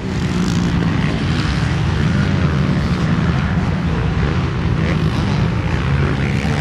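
Motocross bike engines running hard during a race: a loud, steady engine drone with faint rises and falls in pitch as the bikes rev.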